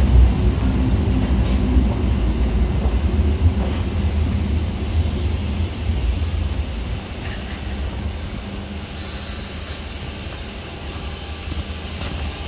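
ScotRail electric multiple unit running along an underground platform, its low rumble slowly fading as it pulls away. A short burst of high hiss comes about nine seconds in.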